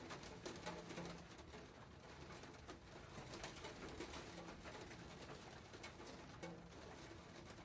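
Faint raindrops pattering and dripping in many small, irregular ticks, with a few brief low tones mixed in.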